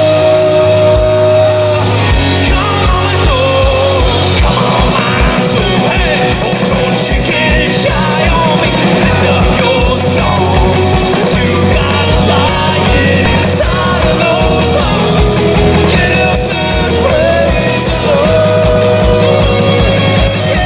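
Live rock band playing at full volume: distorted electric guitars, bass and drums driving a fast, even kick-drum beat, with a bending melodic line of lead guitar or voice over the top.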